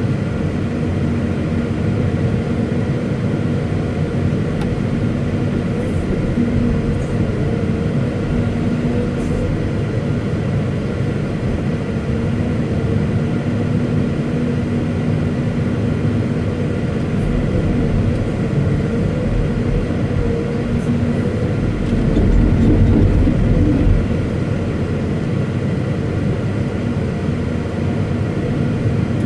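Caterpillar 329E hydraulic excavator's diesel engine running steadily, with steady whining tones over a low rumble. About 22 seconds in it briefly gets louder and deeper, as if taking load.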